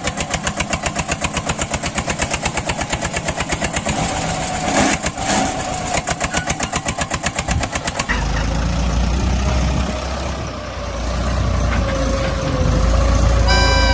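Mini tractor engine chugging in an even beat of about seven or eight pulses a second, changing about eight seconds in to a steadier, deeper drone. A brief tone falling slightly in pitch comes in near the end.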